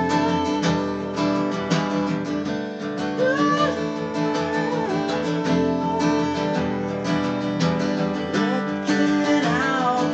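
Live band music led by strummed acoustic guitar, with a gliding, wavering melody line above it.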